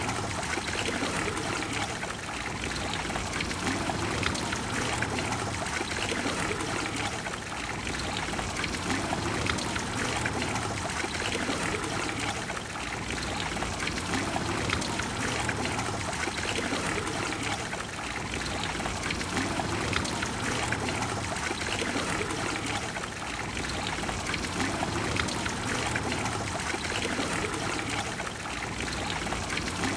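Water of the Trevi Fountain splashing and flowing steadily into its basin, with gentle swells every few seconds.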